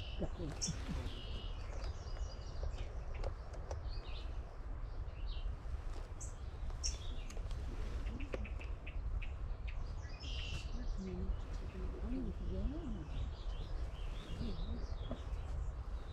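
Several songbirds calling and singing in short, scattered high chirps and phrases over a steady low rumble.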